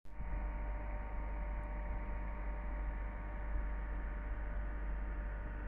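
A motor ship's engine running steadily: an even low hum with several steady tones above it.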